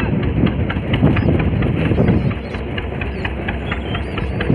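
Fishing boat's engine running at idle with a steady run of even knocks, with a few short high calls from seabirds above it.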